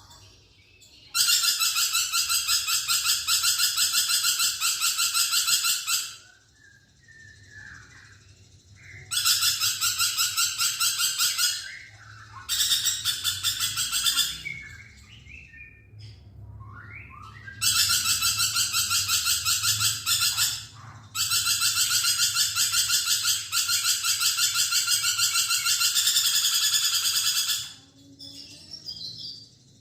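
Lorikeet chattering in long, rapid, shrill trilling bouts, five of them lasting a few seconds each with short gaps between. In the gaps come softer, short calls that slide up and down in pitch.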